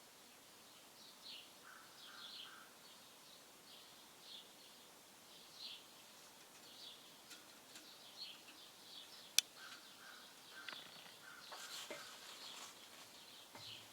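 Faint bird chirps, short and repeated, with one sharp click about nine seconds in and a few lighter clicks after it.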